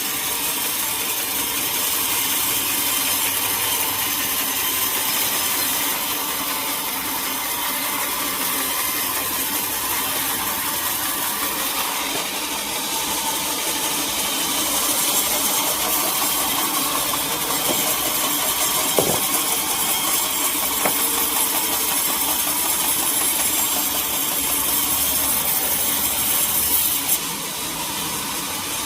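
Sawmill saw cutting through a log, with an engine running under it, a steady high hiss of the cut. A single sharp knock about two-thirds of the way in, and the high cutting hiss drops away near the end.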